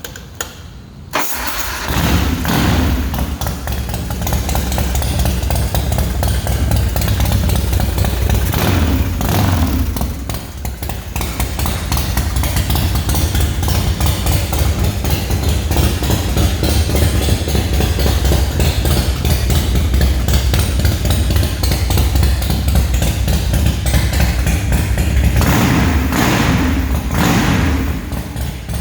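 Motorcycle with a big-inch Ultima V-twin engine started: a click, then it fires about a second in and settles to a loud, lumpy idle, blipped up in revs a few times.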